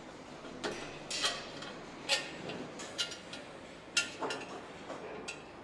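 Engine assembly work: about eight sharp metallic clicks and clinks of hand tools and parts, spaced unevenly, over a steady workshop background.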